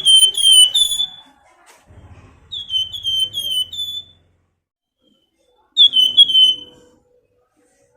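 Flamboyan songbird giving its 'nyiul' whistling call: three loud bursts of quick, high, downslurred whistled notes, about four notes each, with short pauses between.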